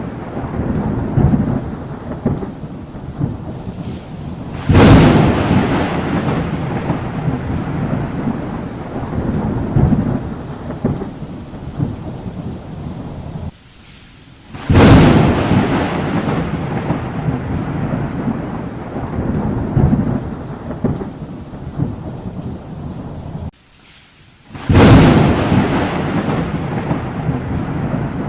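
Thunderstorm with steady rain and three sharp thunderclaps about ten seconds apart, each followed by a long rolling rumble that fades back into the rain.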